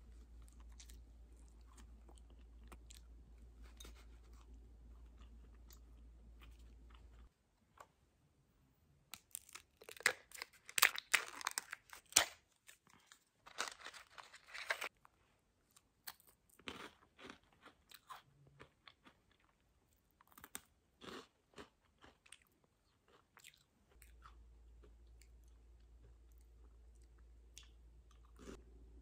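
Crunchy snacks being bitten and chewed close to the microphone, with a dense stretch of loud crackling a few seconds in and scattered crunches after it.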